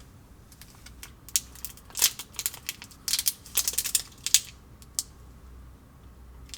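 Thin plastic packaging of a DIY candy kit crinkling and rustling as it is handled, in irregular bursts of sharp crackles, busiest in the middle.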